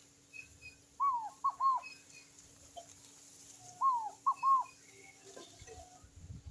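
Ground dove (rolinha) calling: two short phrases of three hollow, arched notes, one about a second in and the next about three seconds later. Faint chirps from other small birds sound in the background.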